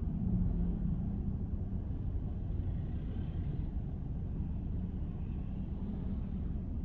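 Car driving on city roads: a steady low rumble of road and engine noise.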